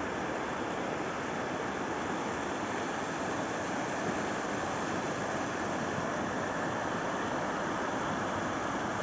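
Rushing water of a fast mountain river or waterfall: a steady, unbroken rush.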